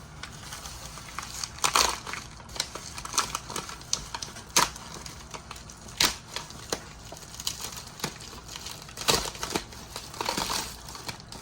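Packaging crinkling and rustling as small concrete fingerboard slabs are unwrapped, with several sharp clicks and knocks spread unevenly through it.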